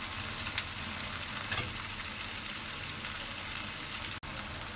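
Onion and tomato masala sizzling steadily in hot oil in a pan, the tomatoes cooked down to a mash. There is one sharp knock about half a second in.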